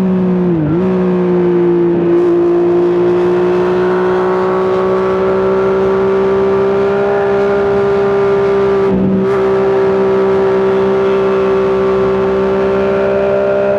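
Triumph Street Triple 675's inline three-cylinder engine running hard through a custom exhaust, its pitch held high and steady. The note dips briefly about half a second in and again about nine seconds in, then returns to the same pitch.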